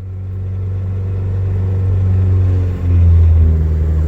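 Built LS-VTEC turbo four-cylinder in a 1997 Honda Civic running on E85 just after a cold start, held at a fast idle on part throttle because it won't idle on its own until warm; the remote-mounted idle air control valve needs a retune. A steady low engine note grows louder, dips briefly about three seconds in, then comes back louder.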